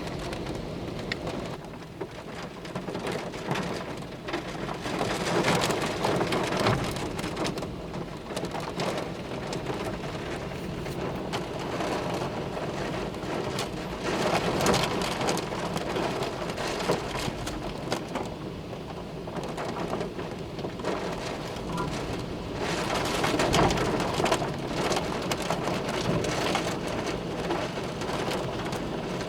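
Heavy storm rain pouring down in strong, gusty wind, the noise swelling with each gust, three times.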